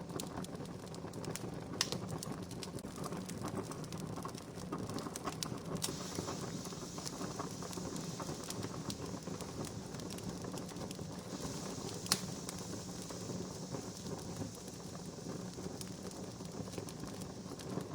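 Wood campfire crackling: a steady hiss dotted with many small clicks, and sharp pops about two seconds in and, louder, about twelve seconds in.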